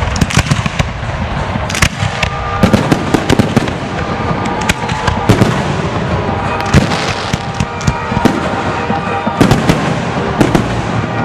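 Fireworks display: a dense run of sharp bangs and crackles in quick succession, with no let-up.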